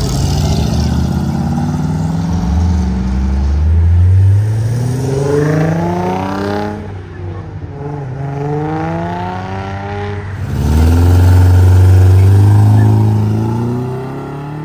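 A car engine accelerating hard away, its pitch climbing and falling back twice at upshifts before climbing again. It is loudest about eleven seconds in, then fades near the end.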